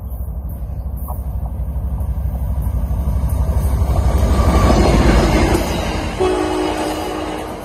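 Amtrak California San Joaquin passenger train passing close by. The diesel locomotive's rumble builds to its loudest about five seconds in as it goes past, then the coaches roll by. A horn chord sounds about six seconds in and holds to the end.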